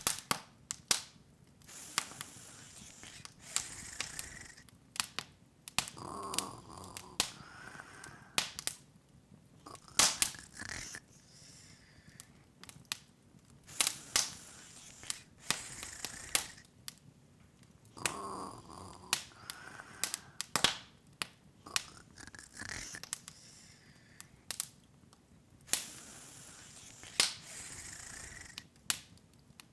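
Open wood fire crackling: irregular sharp pops and snaps over a soft hiss of flame.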